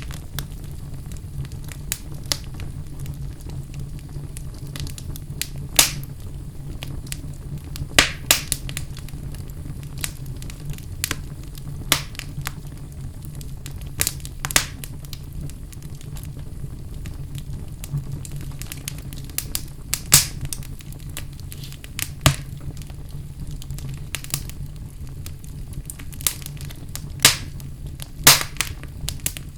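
Fire burning in a fireplace, crackling with sharp pops at irregular intervals over a steady low rumble.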